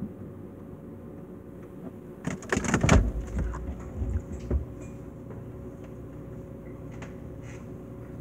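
Refrigerator door pulled open, a loud rattling clatter of items on its shelves, followed by a few lighter knocks over the next couple of seconds. A steady hum runs underneath.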